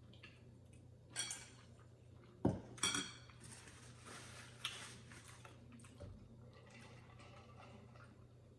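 Close-up eating sounds of a noodle mukbang: a utensil clinking and scraping against the bowl a few times, with soft noisy mouth sounds of eating noodles in between.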